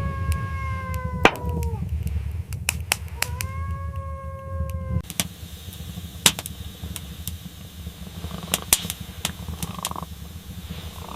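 A kitten meowing twice: two long, level calls about two seconds apart. Under them is a low rumble that stops about five seconds in, with scattered sharp crackles throughout.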